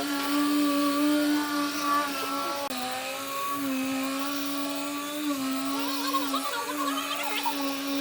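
Electric motor of a wood lathe running with a steady whine that dips slightly in pitch and recovers a few times as the load changes.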